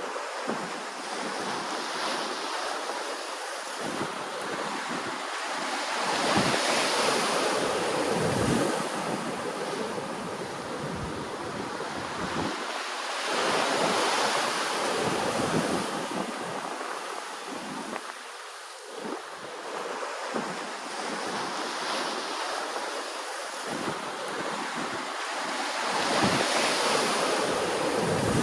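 Ocean waves washing onto the shore in slow surges that swell and fall back, loudest three times.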